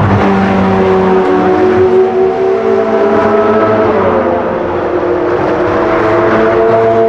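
Several sports-car engines running at sustained revs on the circuit, their notes overlapping, with one note dropping in pitch about four seconds in as a car goes by.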